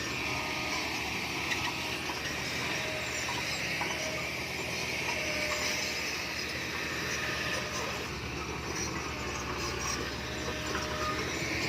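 Komatsu D20P bulldozer running steadily at work, its diesel engine rumbling, with short high squeaks here and there.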